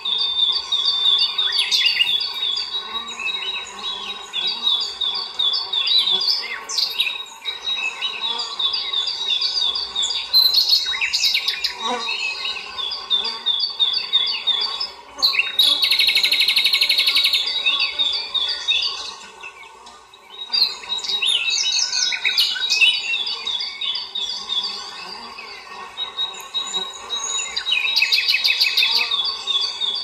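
Birds singing, with series of short high chirps repeated through the whole stretch. A fast, buzzy trill comes in about sixteen seconds in for roughly three seconds, and again near the end.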